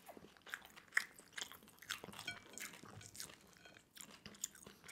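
Faint, close-miked chewing of pan-fried rice roll (cheung fun): soft, irregular wet mouth clicks and smacks.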